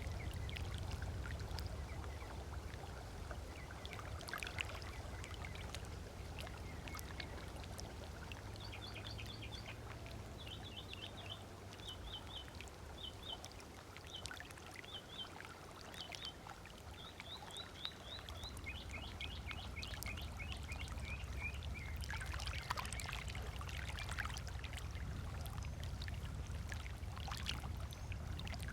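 Small waves lapping on a sandy lakeshore in soft, irregular splashes over a steady low rumble. From about a third of the way in to near three-quarters, a songbird sings runs of quick, high, repeated chirps.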